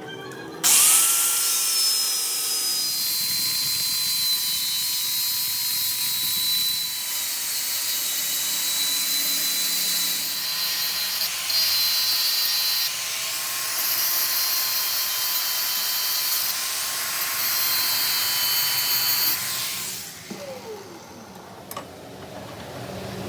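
A power tool starts abruptly, runs steadily with a high whine over a dense hiss for about nineteen seconds, then cuts off and winds down with a falling pitch.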